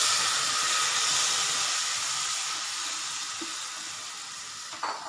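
Boiled black chickpeas with some of their liquid hitting hot ghee and fried tomato masala in a kadhai: a loud sizzling hiss that is strongest at first and slowly dies down as the pan cools.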